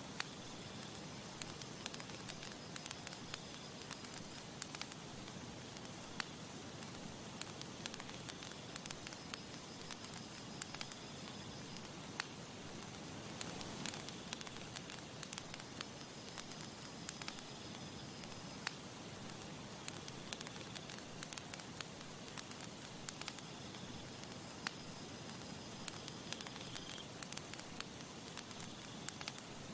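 Campfire crackling: a steady hiss broken by many sharp pops and snaps. Faint short high chirps recur every couple of seconds.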